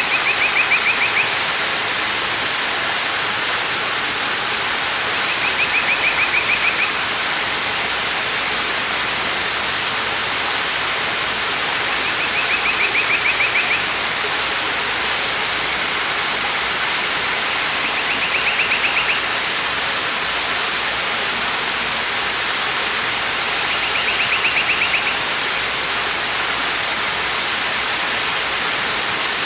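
Waterfall pouring with a steady rushing hiss. About every six seconds a short, rapid high-pitched trill sounds over it, five times in all.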